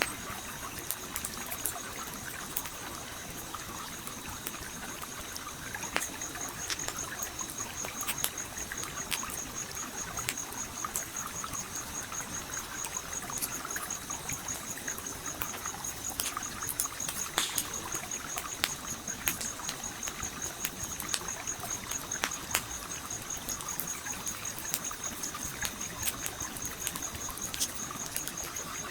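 Wood fire crackling with frequent sharp pops over a gently trickling stream. A steady, high, fast-pulsing tone runs above them from about six seconds in.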